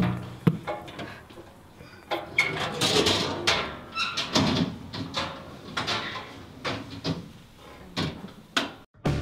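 An irregular series of knocks, clunks and rustles, like doors and objects being handled, ending in an abrupt cut.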